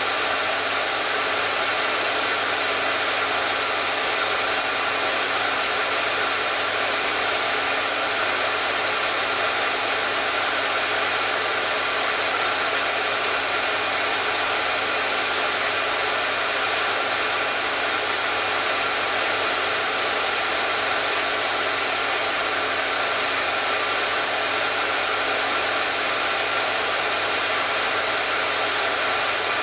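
Hair dryer running steadily: an even, unchanging rushing blow with a faint motor hum beneath it.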